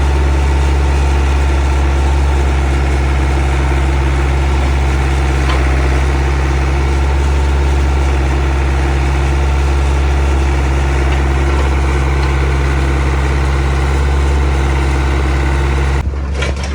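CAT 307SSR mini excavator's Mitsubishi diesel engine idling steadily after its fuel injection pump was reinstalled, so the no-start fault is cured. The idle stays even, with a strong low hum, until just before the end.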